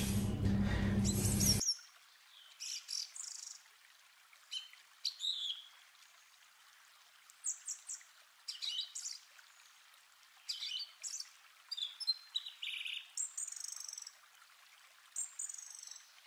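Small birds chirping in short, thin, high calls every second or two. For the first second and a half a louder steady low hum with room noise is heard, and it cuts off abruptly.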